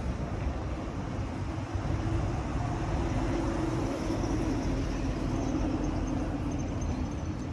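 Steady low rumble of a vehicle engine running, with outdoor background noise.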